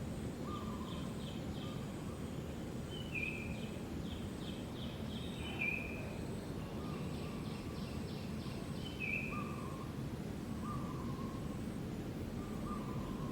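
Short, repeated chirping animal calls, each dropping slightly in pitch, every second or two over a steady low outdoor noise.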